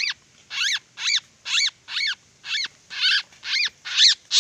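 A bird calling in a steady, rapid series, about two short, harsh calls a second, each call rising and then falling in pitch.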